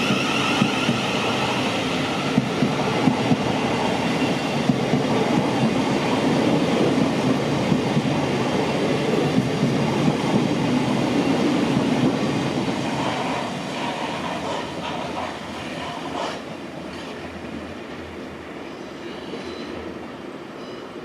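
Thameslink Class 700 electric multiple unit running through the station, its wheels clattering on the rails, loud and steady for about twelve seconds and then fading away as it moves off. A high motor whine dies away right at the start.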